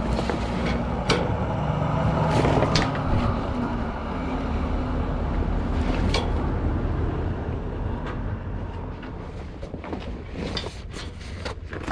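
Heavy flatbed truck tarp being folded and tucked by hand: rustling, with scattered sharp crackles and slaps, more of them near the end. A vehicle engine runs steadily underneath.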